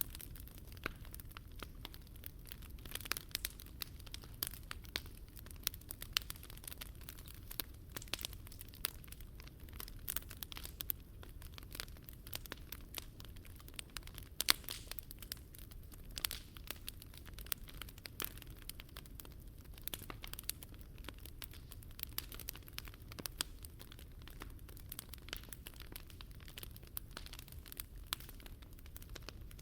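Wood fire crackling, a constant stream of irregular snaps and pops from burning firewood, with one sharper pop about halfway through.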